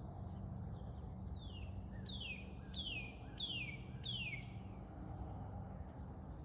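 A bird singing a run of five short notes, each falling in pitch, about one every 0.7 seconds, over a steady low outdoor background rumble.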